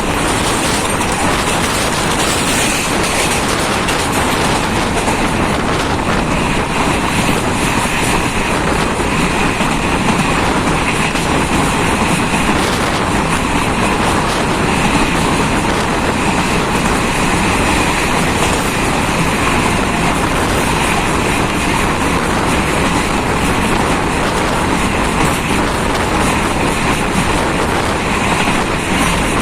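Jan Shatabdi Express passenger train running steadily, a continuous, even noise of wheels rolling on the rails with no change in speed.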